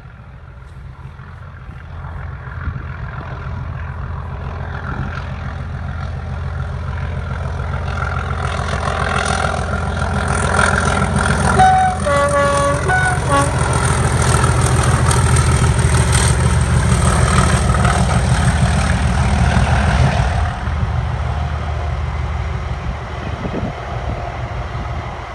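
A diesel locomotive hauling a long rake of coaches approaches and passes close by, its engine running loud with wheels rumbling on the rails. It sounds its horn in a few short blasts about twelve seconds in. The noise builds to its loudest just after the horn, then eases as the coaches roll past.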